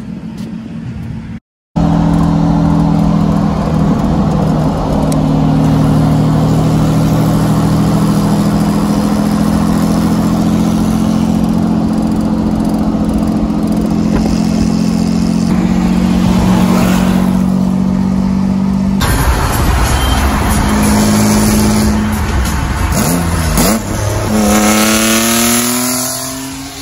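Car engine running hard at high, fairly steady revs for most of the stretch, then revving up again near the end.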